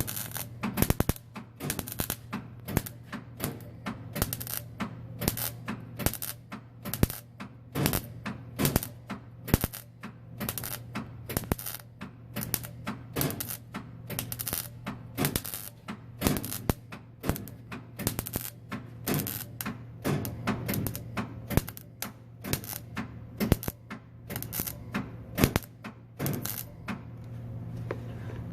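Irregular run of sharp hammer blows, about two a second, that stop shortly before the end.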